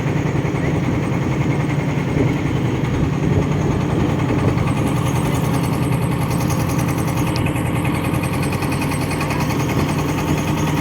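A vehicle engine running steadily with a constant low hum and no change in speed.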